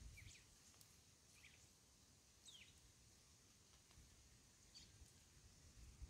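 Near silence with faint, scattered bird chirps: a handful of short high calls, one sliding down in pitch about halfway through.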